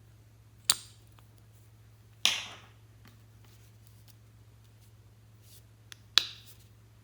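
Slime being pressed and worked by hand, giving three sharp pops, the middle one trailing off a little longer, with a few faint ticks between them.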